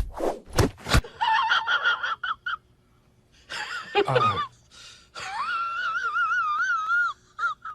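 A cat's drawn-out, wavering yowls and meows: short calls, a falling one, then one long wobbling yowl. Before these, a beat of music cuts off about a second in.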